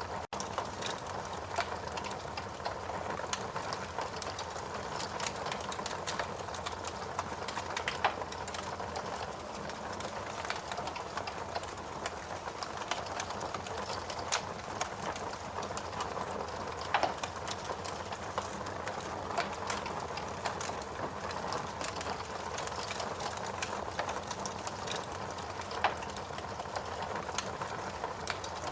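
Wood fire burning in a fireplace: a steady bed of burning noise with constant small crackles and pops, and a few sharper pops standing out now and then.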